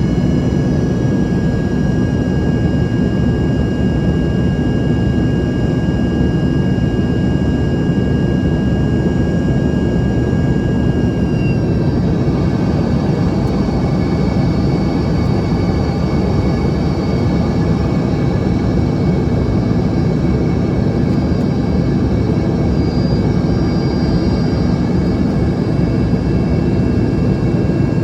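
Embraer ERJ-145's rear-mounted Rolls-Royce AE 3007 turbofans heard from inside the cabin during the climb: a loud, steady rumble of engine and air noise with a thin turbine whine on top. The whine's tones shift in pitch about twelve seconds in, as the engine power setting changes.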